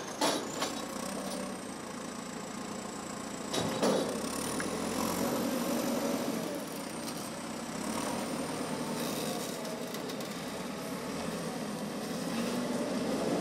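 A motor vehicle engine running steadily, with a couple of knocks about a second in and again around four seconds in.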